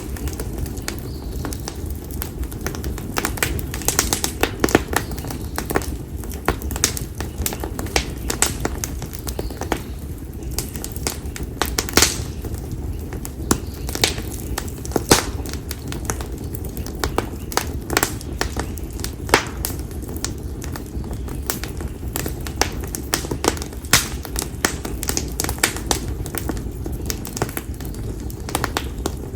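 Wood fire of split konara oak logs burning, with frequent, irregular sharp pops and crackles over a steady low rumble.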